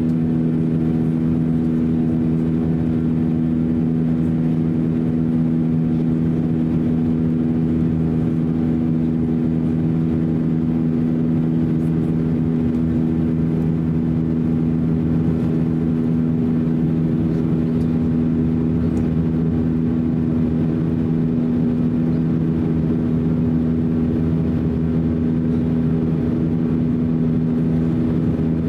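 Airbus A321's IAE V2530-A5 turbofan engines heard inside the cabin from a window seat: a steady drone with a constant low hum.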